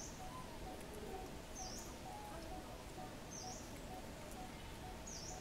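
A bird repeating a short high call about every two seconds, four times, over fainter chirping and a steady outdoor background hiss.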